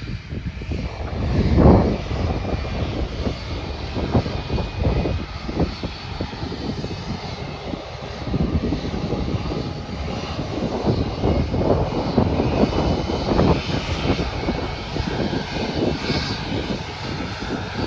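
Jet airliner engines running at an airport, an uneven low rumble that swells and falls, with wind gusting on the microphone.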